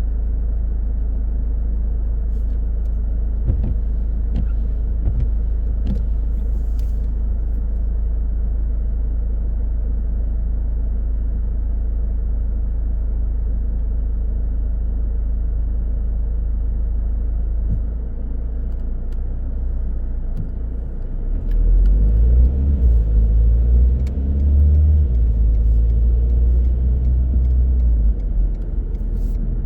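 Car driving, a steady low rumble of road and engine noise with a few light clicks. About two-thirds of the way through, the rumble grows louder and heavier for several seconds.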